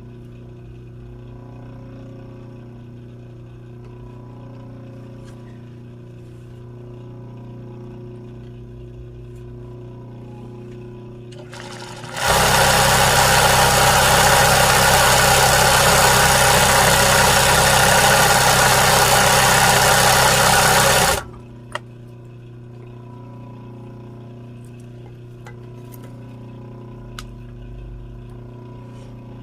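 Sewing machine stitching at speed for about nine seconds, starting and stopping abruptly, over a steady motor hum that runs before and after, with a few light clicks once it stops.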